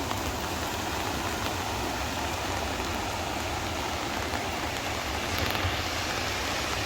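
Sea surf breaking on the beach: a steady rush of waves, swelling slightly about five seconds in.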